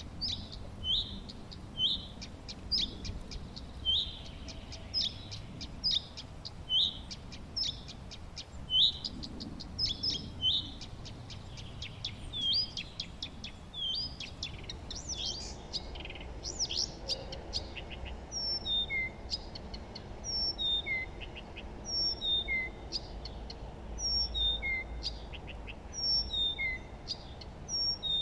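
Wild birds singing: short high chirps repeated about once or twice a second. About halfway through, a different song takes over, of repeated downward-sliding whistled notes.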